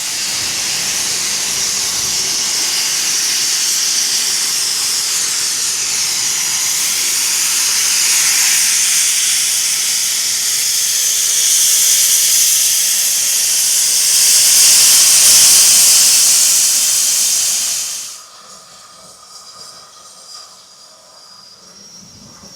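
Steam locomotive letting off steam with a loud, steady hiss that swells a little and then cuts off abruptly about 18 seconds in.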